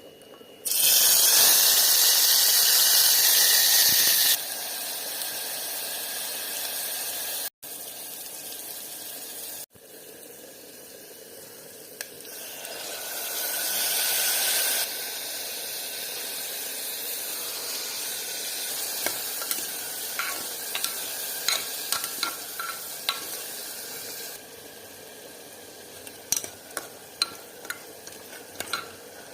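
Food sizzling as it fries in a pan, with a steady hiss that jumps abruptly in loudness several times as the clips cut. In the second half, a utensil makes repeated short clicks against the pan.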